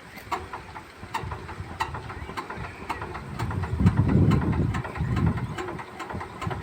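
Cold 13 hp power tiller's single-cylinder diesel engine rumbling into life and running, loudest about four seconds in. A sharp tick repeats about twice a second throughout.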